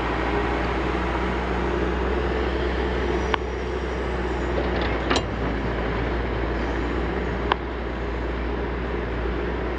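Backhoe loader's diesel engine running steadily while digging, with three sharp knocks a couple of seconds apart.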